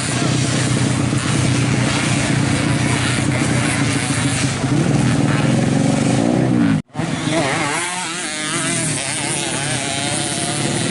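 Racing motorcycle engines running and revving. One engine rises in pitch just before the sound cuts out for an instant about seven seconds in. Afterwards several engines rev up and down, their pitch wavering.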